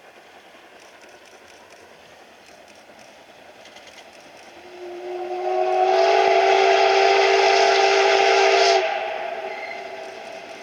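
Steam whistle of the D51 steam locomotive blown once in a long blast of about four seconds, a chord of several tones, which cuts off sharply and echoes away. The first few seconds hold only faint background noise.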